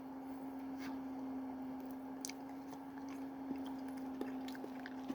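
A person chewing a mouthful of soft stuffed green bell pepper with beef, rice and tomato sauce, with small wet mouth clicks scattered throughout. A steady low hum runs underneath.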